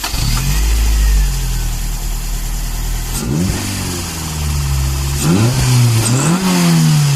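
Car engine running with a deep rumble and blipped a few times: the pitch sweeps up and back down about three seconds in, then twice more in quick succession near the end.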